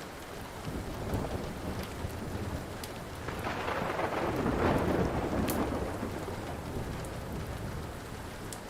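Steady rain with rolling thunder that swells to its loudest about halfway through, then fades back. Occasional sharp pops and crackles of a wood fire.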